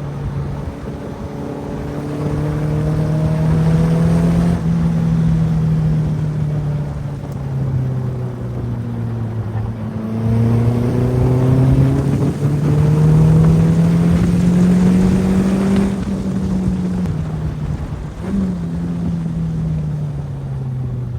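Caterham's 2-litre Ford Duratec four-cylinder engine on track, pulling up through the revs with the pitch climbing steadily, then falling at each gear change. Near the end there is a quick throttle blip on a downshift.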